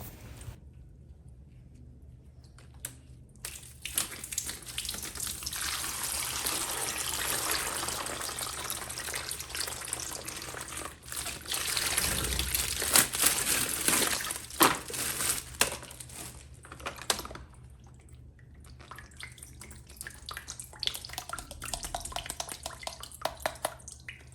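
Water running and splashing, rising for a stretch in the middle then easing off, with scattered small clicks and knocks: typical of a plastic action figure being washed under a tap.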